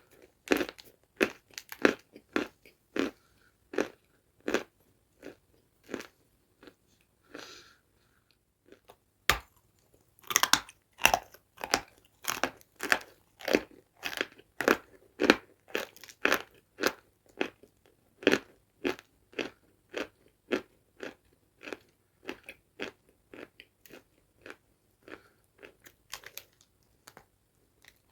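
Close-miked chewing of dry, crunchy food, one crisp crunch after another about twice a second. A short pause comes about 8 seconds in, then a sharp bite and faster, denser chewing.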